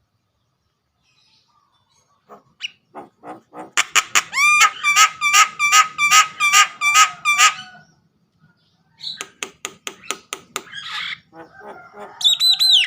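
A pet starling (jalak) calling. After about two seconds of silence comes a fast run of loud, repeated ringing notes, about four a second. After a short pause near eight seconds, a second run of quicker, shorter notes follows.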